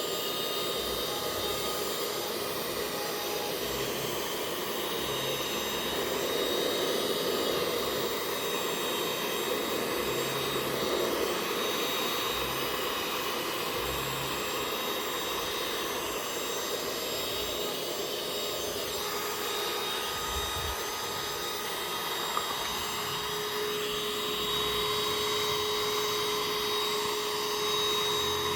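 Parkside Me PMSSA 8 A1 cordless handheld vacuum cleaner running steadily, sucking up sawdust, its motor whine shifting in tone a few times.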